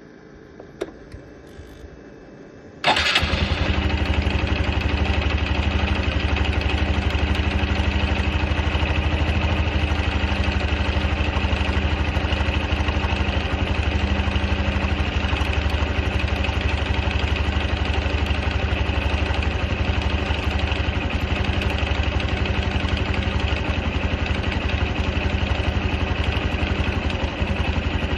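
Honda Super Cub 110 (JA44) air-cooled single-cylinder engine, started about three seconds in after a couple of faint clicks, then idling steadily. It idles with a rattling noise that the owner suspects may be abnormal.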